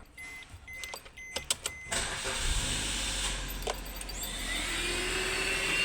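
Car ignition: a few clicks and short beeps, then about two seconds in the engine starts and settles into a steady run, with a faint rising whine near the end.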